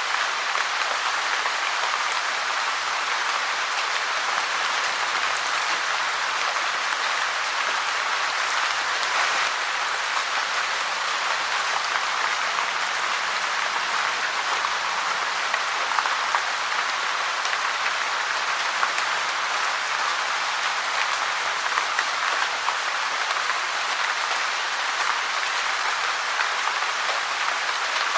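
Steady rain falling: an even hiss with a fine patter of scattered drops, holding the same level throughout.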